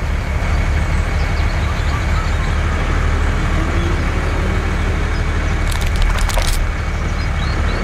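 A motor running steadily with a low hum, and a short burst of sharp cracks about six seconds in.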